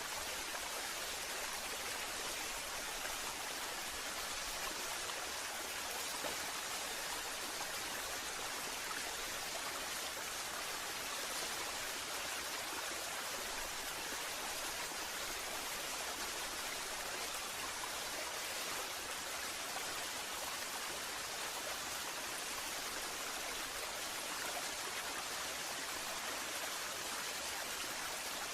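Waterfall: water falling and splashing in a steady, even rush, mostly hiss-like with little low rumble.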